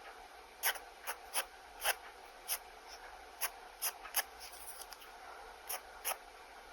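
Pen nib scratching across sketchbook paper in about ten short, quick strokes at an irregular pace.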